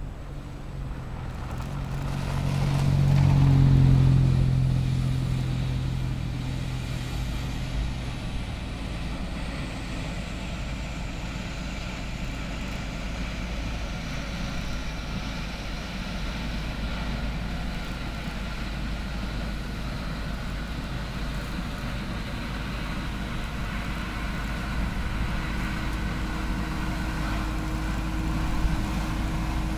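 Snow-removal vehicle's engine running: it swells loud about four seconds in, then settles into a steady drone with a slowly falling whine above it.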